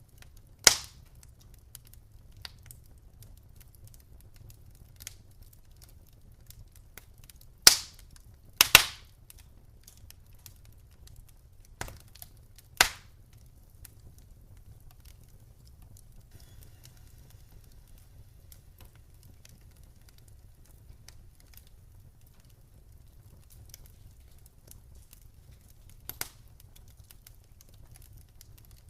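Wood fire crackling in a fireplace: sparse sharp pops and snaps over a low, steady rumble. A few loud pops, about a second in, twice around eight to nine seconds and again near thirteen seconds, with fainter ticks scattered between.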